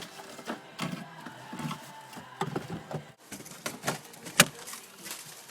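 Irregular clicks, taps and knocks of hands handling parts and tools during car work, with one sharp knock about four and a half seconds in.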